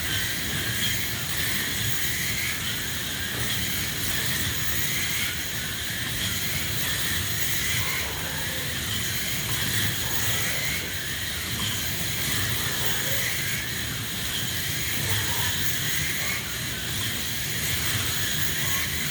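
Several modified-class slot cars racing on a large track, their small electric motors whining and rising and falling in pitch over and over as they speed up and slow down, over a steady hiss of the cars running on the track.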